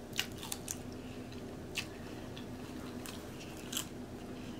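Crunchy tortilla chips with cheese sauce being chewed: several sharp crunches at irregular intervals over a faint steady hum.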